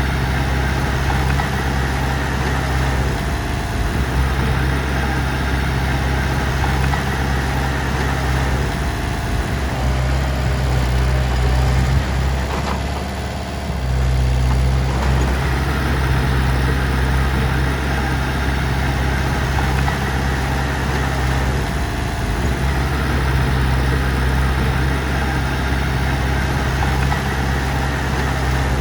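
Heavy diesel engine running steadily at a low, even speed, with a brief dip in its sound about halfway through.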